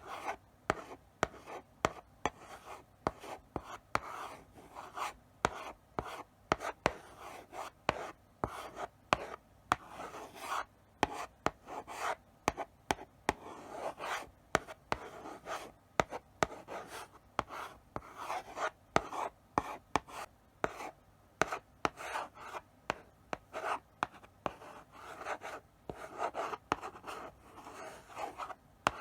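Chalk writing slowly on a blackboard: short scratchy strokes, one after another, with sharp taps as the chalk meets the board.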